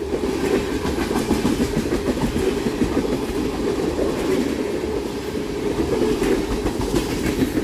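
Freight train tank cars rolling past, a steady rumble of steel wheels on the rails with clicking.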